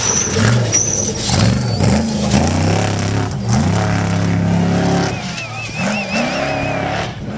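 Off-road race truck engine revving hard, its pitch climbing and dropping again and again as it accelerates, then falling away near the end.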